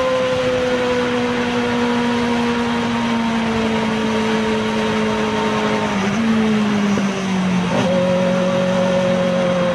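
Race-prepared microcar (voiture sans permis) heard from onboard, its engine running hard with a high whining note that slowly sinks in pitch, dips and wavers about six to seven seconds in, then climbs back up near eight seconds in. A steady rush of wind and road noise lies under it.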